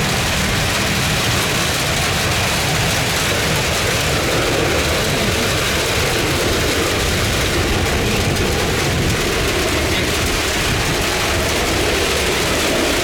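Heavy rain falling, a steady even rush with a low rumble underneath that does not change.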